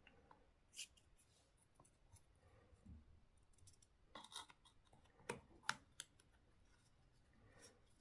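A few faint, sharp clicks and taps of small RC car suspension parts and tools being handled and fitted together, with a short cluster about halfway through.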